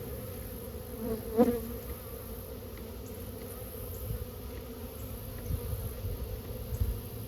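A honeybee colony buzzing steadily, the hum disturbed as the hive is opened, with a brief louder buzz about a second and a half in. A few dull low knocks in the second half.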